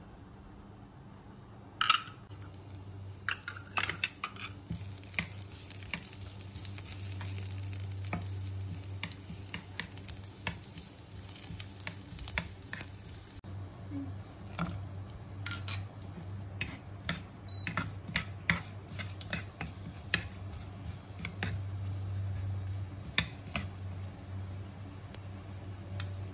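Garlic cloves and ginger slices sizzling in hot oil in a nonstick wok, starting about two seconds in after a sharp knock, with a spatula clicking and scraping against the pan many times. A steady low hum runs underneath.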